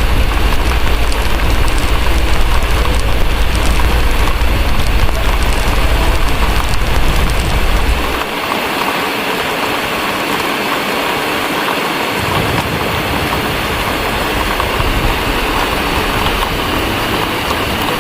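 Ambience mix of steady heavy rain with faint fireplace crackling over it and a deep low rumble underneath; the rumble drops out about eight seconds in and comes back more weakly about four seconds later.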